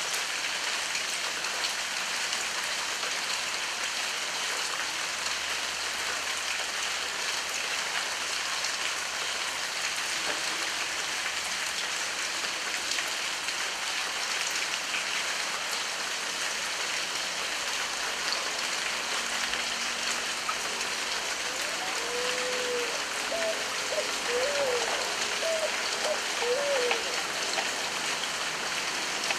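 Heavy rain falling steadily. A few short pitched calls, from an animal, are heard about three-quarters of the way in.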